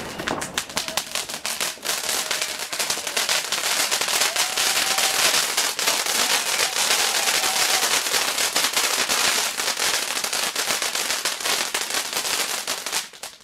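Fireworks crackling: a long, dense run of rapid pops and crackles that cuts off suddenly near the end.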